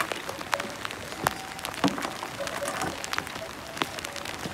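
Steady rain, with scattered raindrop ticks on nearby surfaces.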